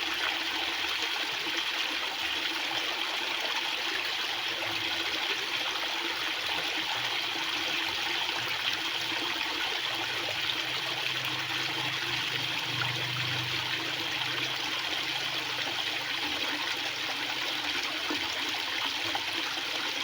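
Fast-flowing water rushing in a steady, unbroken stream.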